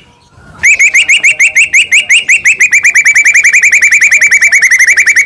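White-rumped shama singing a fast, loud trill. After a brief pause it repeats one short upswept note about ten times a second, the pitch sagging slightly as it goes on.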